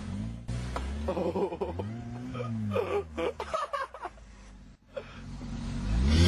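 A car engine revving up and then easing off, with people's voices laughing and exclaiming over it in the middle. The sound falls low about three-quarters of the way through, then the engine rises again near the end.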